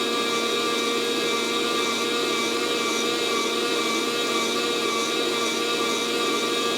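Fresh Roast SR 800 hot-air coffee roaster running: its fan blows a steady whir with a few constant tones as it tumbles the beans. The roast is late and hot, with no first crack yet.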